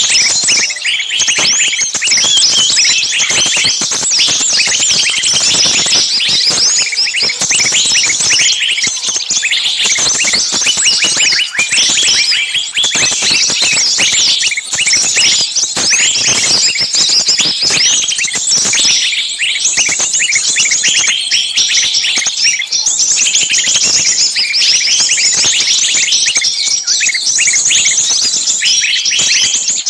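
Many small birds chirping at once, a dense, unbroken chorus of short high calls.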